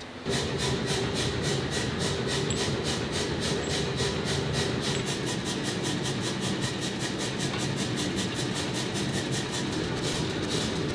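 Shop machine running with a steady, rapid mechanical clatter of about six ticks a second over a steady hum.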